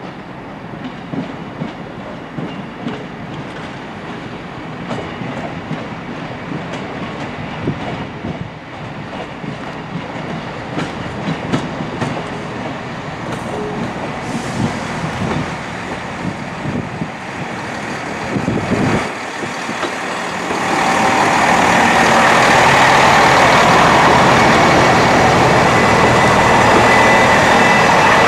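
A train at a railway station: about twenty seconds of moderate, uneven running noise with scattered clicks and knocks, then the sound jumps to a loud, steady rush with a thin steady whine as the train comes close.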